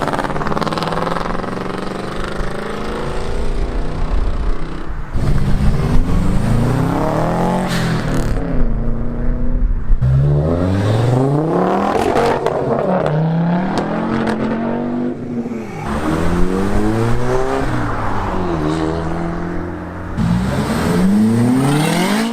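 Modified cars accelerating hard away one after another, their engines revving up through the gears: each engine note climbs in pitch, then drops back at a gear change, several times over.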